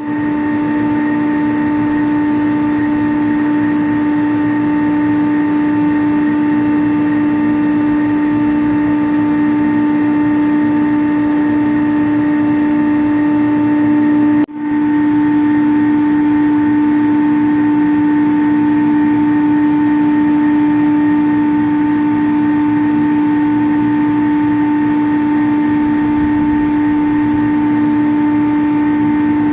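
Steady machinery hum from chiller equipment, with a strong low tone and fainter higher tones, cut off for an instant about halfway through.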